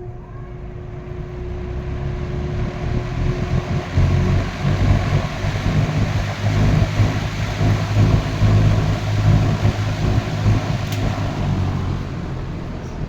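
Mid-1960s Dominion 20-inch box fan with its Fasco motor and steel blades, started on high speed. The rush of air builds over the first four seconds as the blades come up to speed, then runs steady and loud over a low hum.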